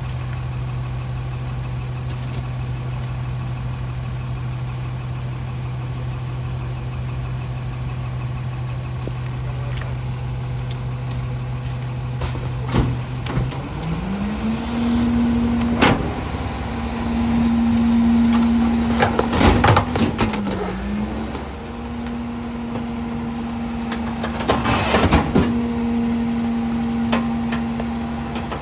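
Garbage truck's diesel engine idling, then revving up about halfway through and holding a higher steady speed while the packer runs, with clanks and a stretch of crunching as wet, heavy trash is compacted.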